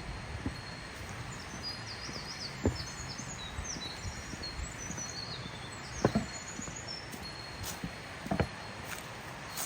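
Small birds chirping in quick high notes over a steady low outdoor rumble, with a few sharp knocks, the loudest about six seconds in and about eight seconds in.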